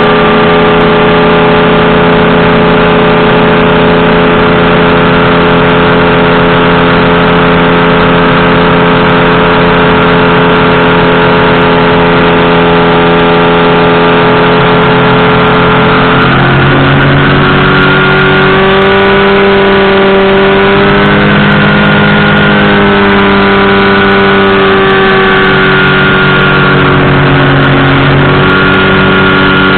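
Powered parachute engine and propeller running loud and steady. About halfway through, the engine speed shifts and then wavers up and down repeatedly as the throttle is worked.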